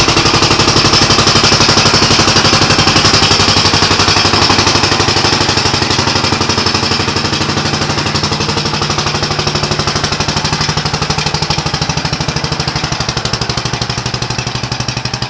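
A 16-horsepower auger engine on a homemade tractor, running with a fast, even firing beat. It gradually gets quieter from about a third of the way in.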